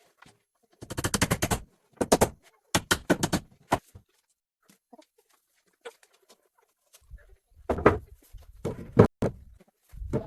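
Rapid bursts of knocking, about ten sharp strikes a second, followed after a pause by a few heavier thuds near the end.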